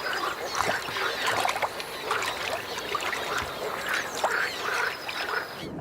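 Chorus of male moor frogs calling at a spawning pond: many short, overlapping, quacking calls, which cut off suddenly near the end.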